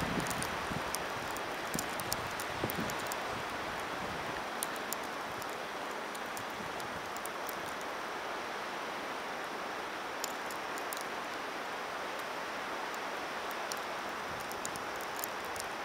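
Steady hiss of snowstorm wind, with faint fine ticks scattered through it. A few low gusts buffet the microphone in the first few seconds.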